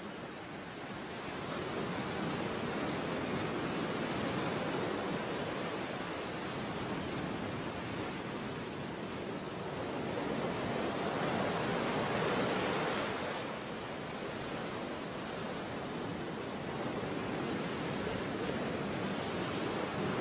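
Sea waves breaking and washing on a shore, a continuous rush of surf that swells and ebbs every few seconds, loudest about ten to thirteen seconds in.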